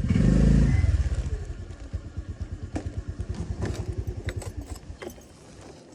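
Motorcycle engine running, louder for a moment near the start, then its even low firing beat fades away over a few seconds and dies out near the end. A few light clicks follow.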